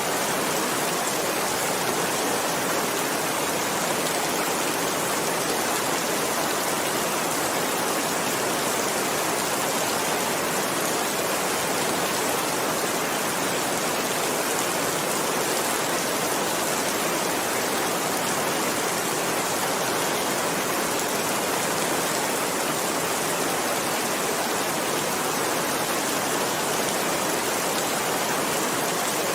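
Heavy rain falling, a steady even hiss with no change in level.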